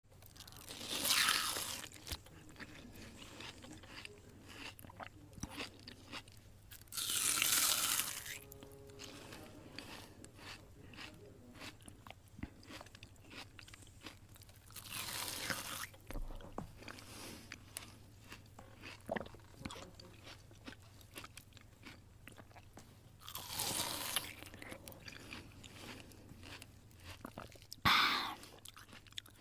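A cat chewing and biting a plaid throw blanket: a run of small, quick chewing clicks, broken about five times by a louder noisy burst lasting a second or two.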